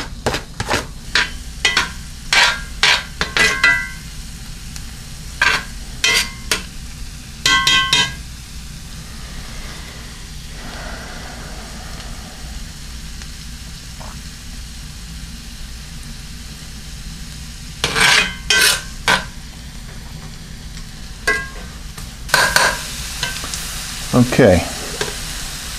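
Minced garlic and onion sizzling in butter in a cast iron skillet while being stirred, with a metal spoon clicking and scraping against the pan many times in the first eight seconds and again near the end.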